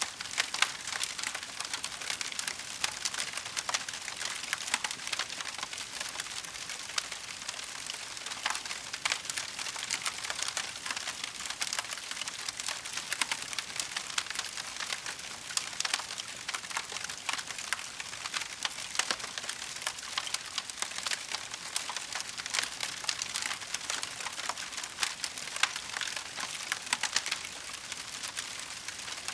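Wood fire crackling steadily, a dense run of small sharp pops and snaps with a few louder ones scattered through.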